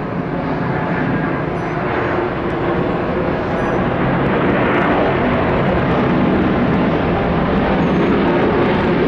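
Airbus A320neo's twin jet engines at takeoff power as the airliner rolls for takeoff: a steady roar that grows louder over the first few seconds, then holds.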